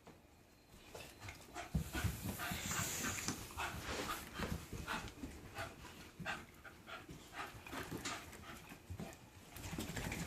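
Puppies play-fighting: panting and scuffling sounds that come irregularly from about a second in.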